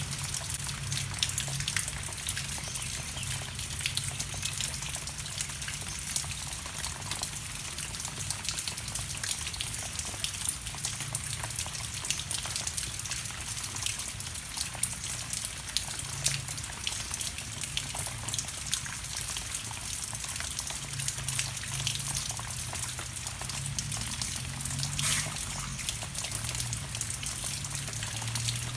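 Steady rain falling: a continuous hiss full of small, quick drop taps.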